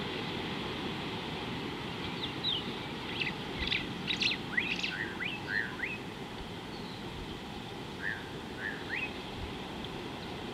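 Birds chirping: a quick run of short, high, rising chirps and whistles from about two seconds in to about six, then a few more near the end, over a steady low rumble.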